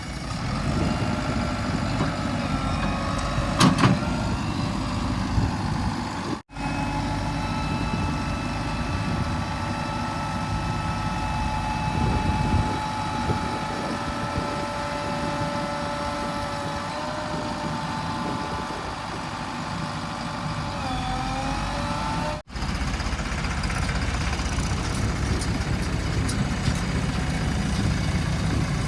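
Heavy diesel engines running steadily, with a high whine over them that shifts in pitch a few times. The sound breaks off sharply twice.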